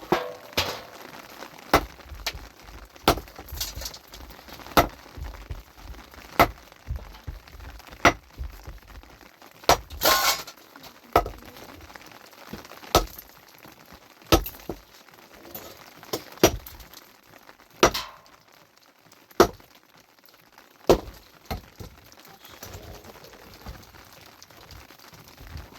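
A metal tool, pickaxe or crowbar, striking rock again and again at about one blow every second and a half, each blow a sharp clink. A little before the middle one blow is followed by a longer crash of breaking stone.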